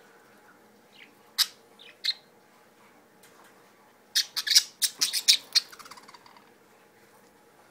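Budgies chirping: a few single chirps, then a quick burst of rapid chirps and squawks about four seconds in.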